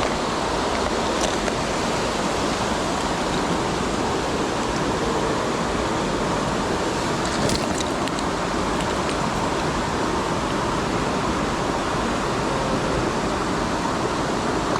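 Steady rushing of a mountain stream's flowing water, with a couple of faint clicks.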